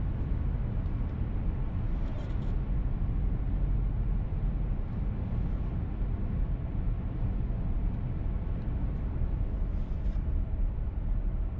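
Steady in-cabin rumble of a VW T-Roc petrol car being driven: road and engine noise, with a few faint light clicks.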